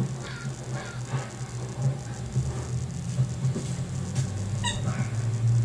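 Cat chattering at a bird: a run of short chirps, about two a second, that thin out about halfway through, over a steady low hum.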